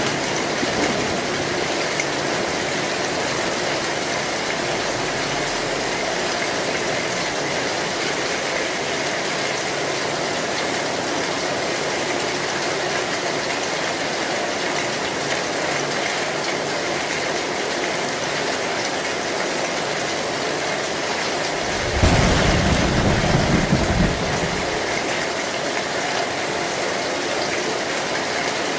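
Heavy rain falling on an old zinc (tin) roof as a steady, even hiss. About three quarters of the way through, thunder gives a low, loud rumble for two or three seconds.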